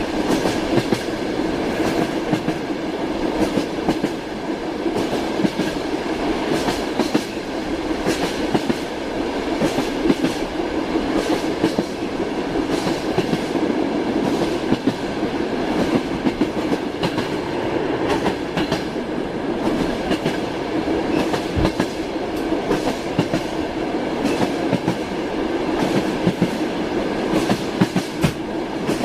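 Railway carriage wheels clattering over rail joints, a continuous rumble of a moving passenger train with frequent irregular clicks and knocks.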